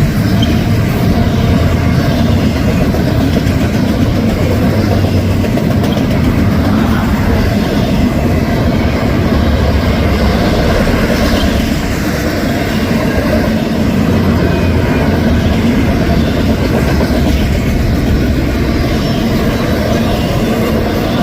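Union Pacific intermodal freight train rolling past, the steady rumble and rattle of its wheels on the rail.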